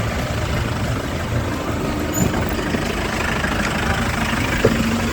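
Steady road-traffic and vehicle noise with a low engine rumble, even and unbroken.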